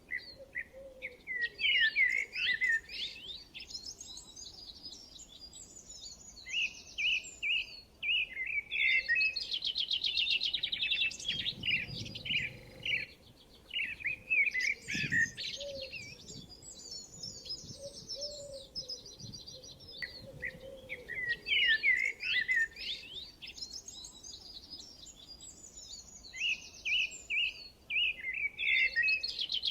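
Songbirds singing and chirping in bursts of rapid twittering and trills. The same run of song comes back about every twelve seconds.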